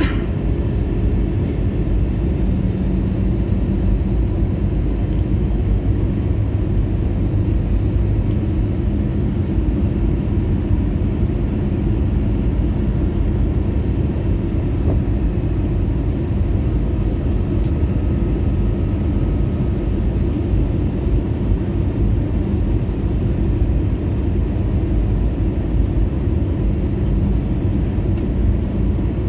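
Airbus A320-214 cabin noise in flight: a steady rush of airflow with a low engine hum, unchanging throughout.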